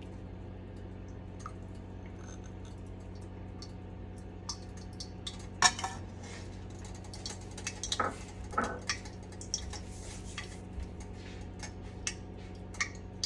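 Metal utensils knocking and clinking against a pan, with a few louder knocks about 6 and 8 seconds in and a busy run of small clicks and crackles in the middle, over a steady low hum. It is mustard oil heating in the pan as cubed chicken goes in.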